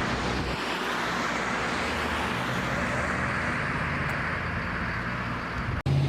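Steady road traffic noise: a continuous hiss of passing cars over a low rumble. Near the end it cuts off abruptly and a steady low hum takes over.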